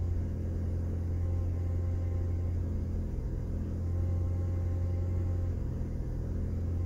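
Honda D16Y8 1.6-litre SOHC VTEC four-cylinder engine idling steadily, heard from inside the cabin. It is freshly started, with the oxygen sensor still warming up, and running quite lean at about 16.5:1 air/fuel.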